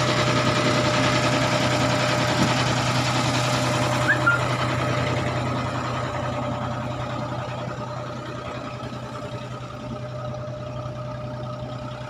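Fishing boat's engine running steadily with a low hum, growing quieter in the second half.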